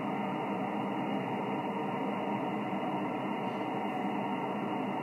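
Steady static hiss from an HF amateur radio receiver, a Yaesu FT-1000MP, tuned to the 20-metre band with nobody transmitting. The open frequency carries only band noise, held within the receiver's narrow voice passband.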